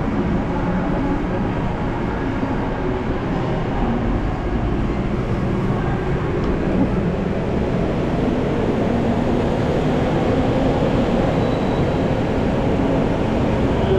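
Steady engine rumble and general noise heard aboard a Disneyland Resort parking tram, growing slightly louder toward the end.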